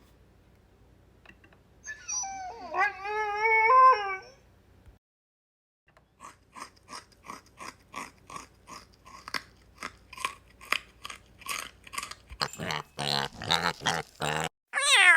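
Dog whining: a wavering, high-pitched cry lasting about two seconds, then a run of short, sharp sounds about three a second that grow louder and denser toward the end.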